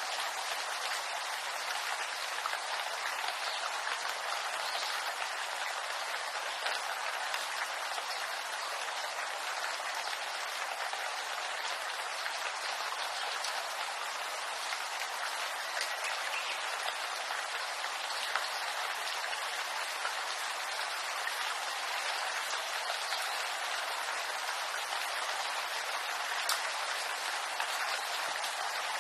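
Steady rain falling on bamboo foliage: a dense even patter with scattered sharper drops.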